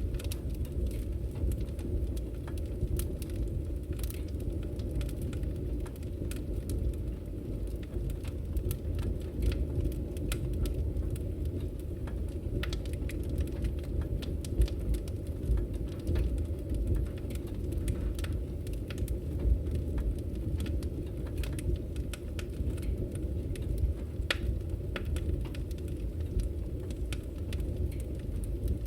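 Wood fire burning in a fireplace: frequent irregular crackles and sharp pops over a steady low rumble.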